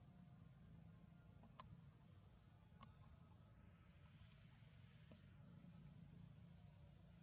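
Near silence with a faint, steady chorus of insects buzzing at a high pitch and a low background rumble. Three faint clicks come about one and a half, three and five seconds in.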